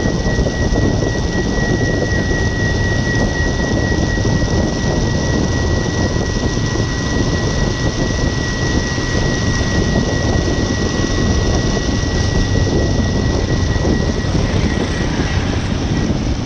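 Steady rush of wind and vehicle noise while travelling, heavy and rumbling, with a thin high whine at one pitch that fades out a little before the end.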